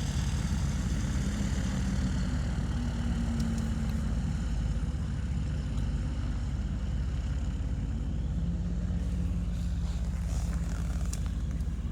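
Car engine idling with a steady low hum, heard from inside the car's cabin.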